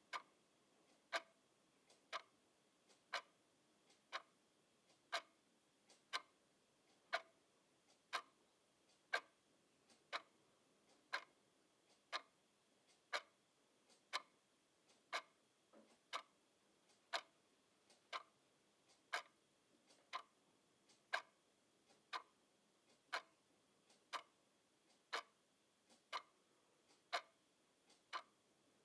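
Clock ticking steadily, about one sharp tick a second, with a fainter click between some of the ticks.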